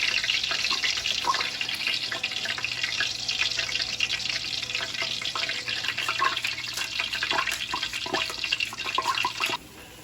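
Water splashing and trickling, dense with small crackling drops, stopping abruptly near the end.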